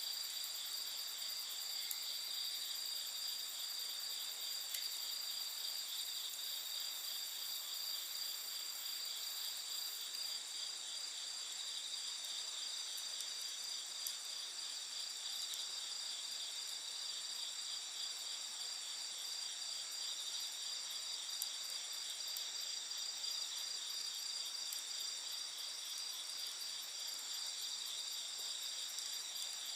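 Night insects chirping in a steady, high-pitched chorus, with a few faint pops from a crackling wood campfire.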